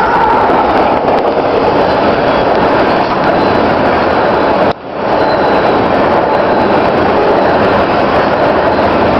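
Loaded freight train of tank cars rolling past close by: a loud, steady rumble of wheels on rail, with a sudden brief drop about halfway through.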